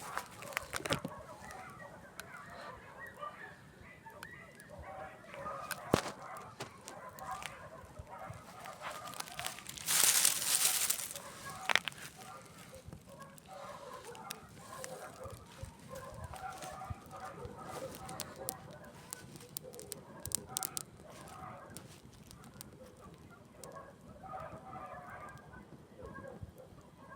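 Campfire crackling with a few sharp pops, while domestic fowl call repeatedly in the background. About ten seconds in there is a brief loud rush of noise.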